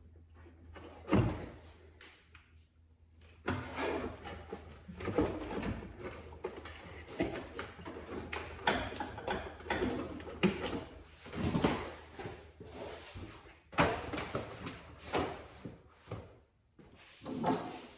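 Irregular knocks, scrapes and rattles of hands and tools working on car parts. There is a sharp knock about a second in, another about fourteen seconds in, and a faint steady low hum underneath.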